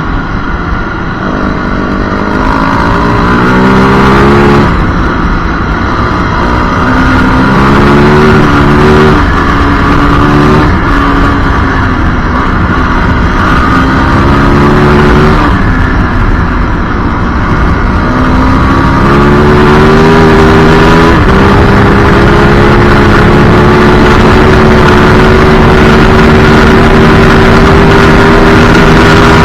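Yamaha WR450F single-cylinder four-stroke engine under hard acceleration, its pitch climbing and dropping back at each of several gear changes, with one short easing-off in the middle. In the last third it holds a steady high pitch at speed.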